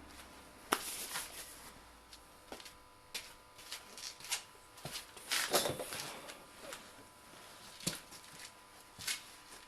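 Scattered light clicks and knocks of objects being handled, with a denser scuffing clatter about halfway through, over a faint steady hum.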